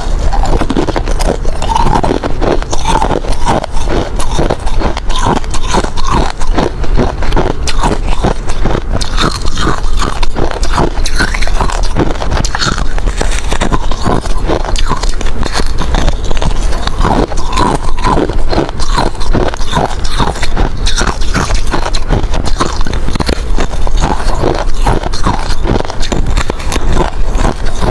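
Close-up crunching of hard ice being bitten and chewed: dense, rapid cracking and grinding that goes on without a break.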